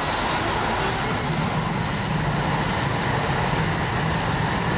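Electric train running at steady speed: an even rolling rumble with a low hum under it.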